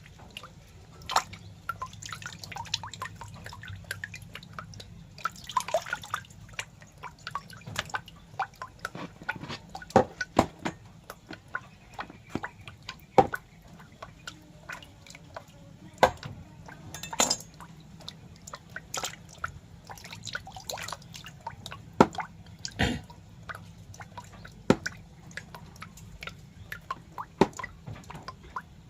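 Irregular wet clicks and drip-like pops, a few much louder than the rest, over a faint steady low hum.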